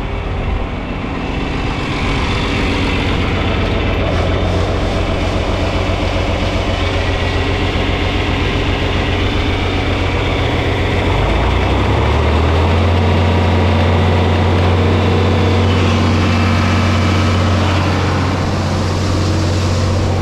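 Tractor's diesel engine running steadily, its speed stepping up about eleven seconds in and holding at the higher pitch.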